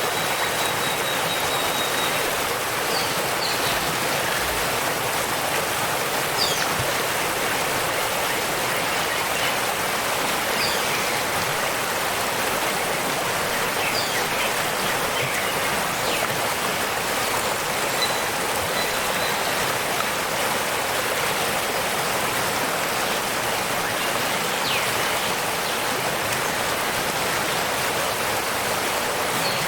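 Steady rushing water of a waterfall, with a few faint, short, high bird chirps scattered through.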